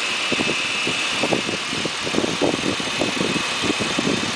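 1996 Nissan Maxima's 3.0-litre V6 idling, heard at the engine bay by the Injen cold air intake, with an uneven pulsing and a steady hiss over it.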